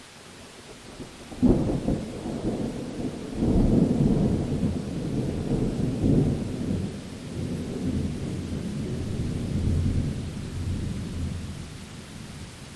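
A thunderclap over steady rain: a sudden crack about a second and a half in, then a long rolling low rumble that swells again and slowly dies away near the end.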